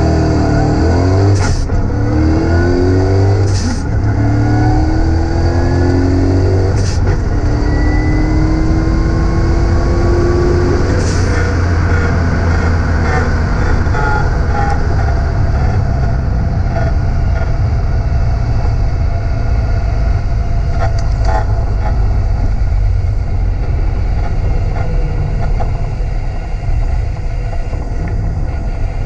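TVR sports car's engine heard from inside the cabin, accelerating hard from a standing start on a drag strip: the note climbs through the gears with three quick upshifts, each a brief break in the rising pitch, then the throttle lifts about eleven seconds in and it runs on at lower revs under road and wind noise.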